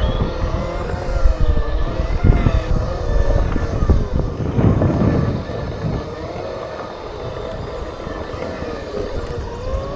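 Segway's electric motors whining, the pitch wavering up and down as the machine moves and balances, over a low rumble.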